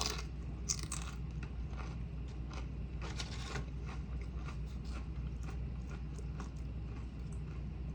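A person chewing food with scattered small crunches and wet mouth clicks, irregular and fairly quiet.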